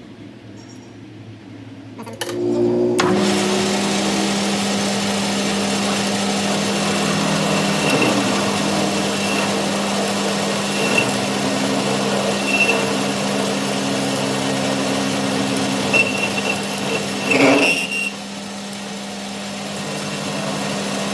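Electric workshop machine starting up about two seconds in, then running steadily with a low even hum over a noisy wash. Short high squeals come now and then, the loudest near the end.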